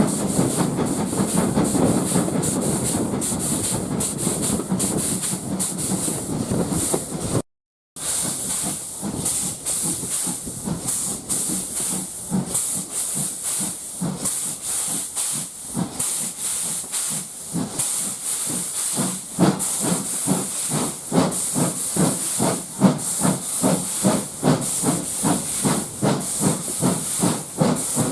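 Steam locomotive hissing steam, with a fast, regular beat of exhaust chuffs. The sound drops out completely for a moment about seven and a half seconds in, then carries on.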